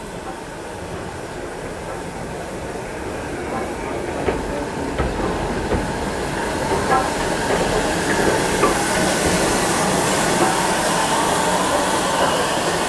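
Ivatt Class 2MT steam locomotive drawing nearer on the line, growing steadily louder. Scattered clicks from the wheels come through, and a hiss rises in the second half.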